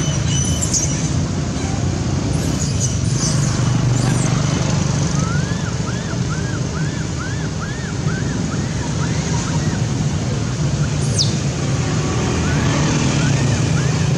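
A steady low, engine-like hum, with two runs of short high chirping calls at about four a second, one in the middle and one near the end, and a few quick high squeaks.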